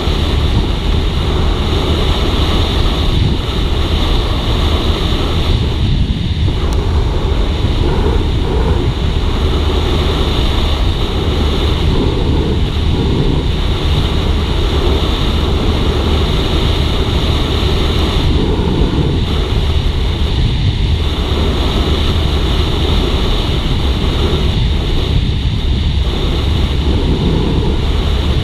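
Steady wind rush over the microphone mixed with the running of a Suzuki GSX-R150's single-cylinder engine as the motorcycle is ridden along at a steady speed.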